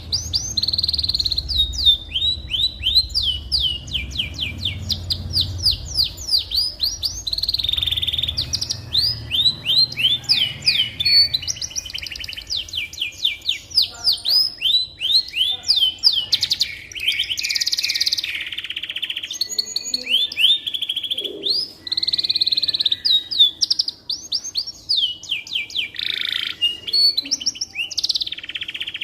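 Domestic canary singing a long, continuous song of fast trills, rolls and quick sweeping whistled notes. A low rumble sits under the song for roughly the first twelve seconds.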